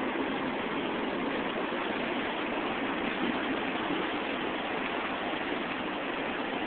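Heavy rain from a storm falling steadily: an even, unbroken hiss.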